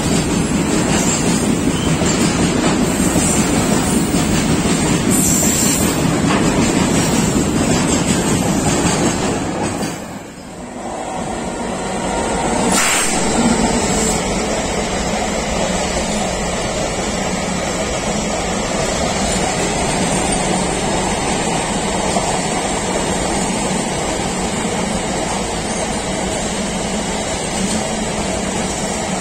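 Freight wagons rolling past on the rails with a steady rumble of wheels: a rake of railway tank wagons, then, after a break about ten seconds in, the flat wagons of a container train. A single sharp knock comes about thirteen seconds in.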